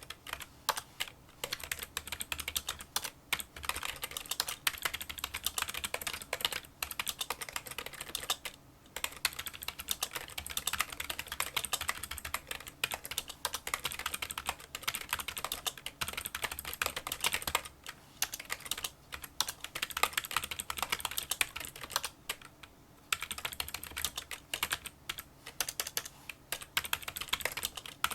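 Fast, continuous touch-typing on a Kinesis Freestyle split keyboard with membrane key switches: a dense run of small, light clicks. The typing pauses briefly about nine seconds in and again about 23 seconds in.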